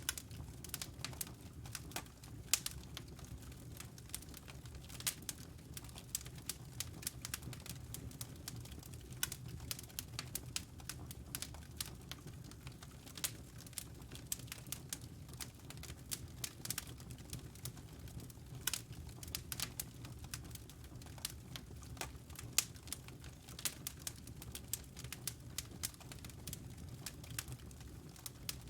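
Wood fire crackling in a fireplace: many irregular sharp snaps over a low steady rumble.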